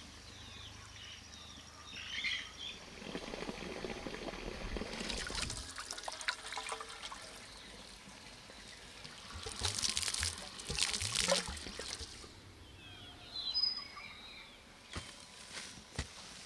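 Water pouring and trickling in two short spells, with a few bird chirps in between.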